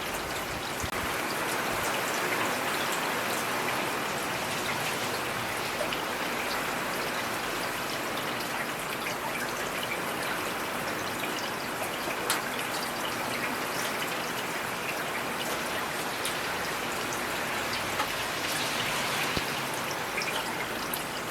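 Heavy rain falling steadily, with scattered sharp drop hits standing out above the even hiss.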